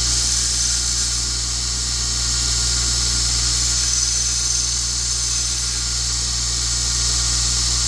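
Belt grinder running steadily while a small piece of forged steel is ground against it, rounding off an edge: a constant low motor hum under a high grinding hiss.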